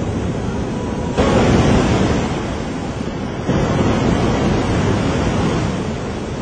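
Loud, continuous rush of surging water, swelling suddenly about a second in and again a few seconds later.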